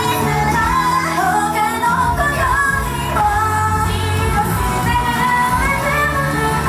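A female idol group singing a J-pop song live, with the voices carrying the melody over steady pop accompaniment.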